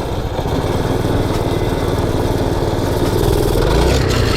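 Predator 212cc single-cylinder four-stroke engine on a mini bike running at low revs with a throbbing beat, rising briefly near the end.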